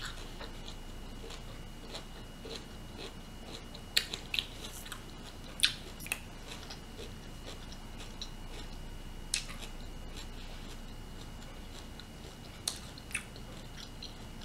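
Close-miked eating of steamed broccoli: quiet chewing with a few sharp crunchy bites scattered through, the stalks still firm and fibrous. A faint steady high-pitched tone runs underneath.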